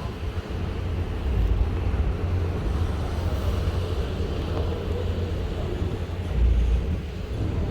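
Steady low rumble with a hiss above it, the running noise of a ship at sea, swelling briefly about six seconds in.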